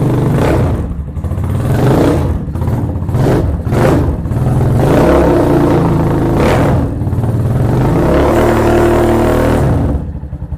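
Venom Ghost Chopper 250 motorcycle engine running and being revved in several blips to test that the charging voltage rises, settling back to a lighter, pulsing idle near the end.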